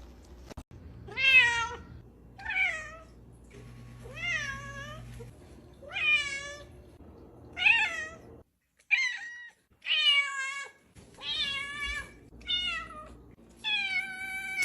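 A domestic cat meowing over and over, about ten separate meows each well under a second long, with a short break about halfway through.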